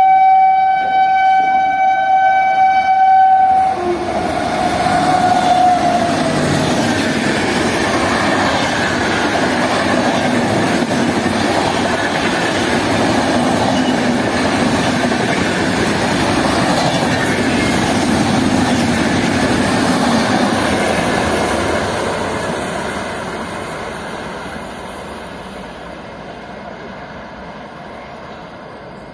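Indian Railways passenger train passing at speed close by. The locomotive's horn sounds for about four seconds and dips in pitch as it goes past. Then a long run of coaches rumbles and clatters over the rails, fading away over the last several seconds.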